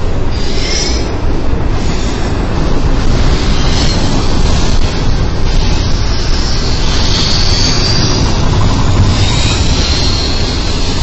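Double-stack intermodal freight cars rolling past close by: a loud, steady rumble of steel wheels on the rails. Faint high-pitched wheel squeals come in briefly near the start and again about two-thirds through.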